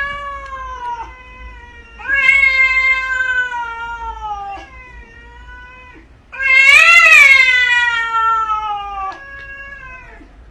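A cat yowling in three long, drawn-out meows, each one sliding slowly down in pitch; the third rises briefly before it falls.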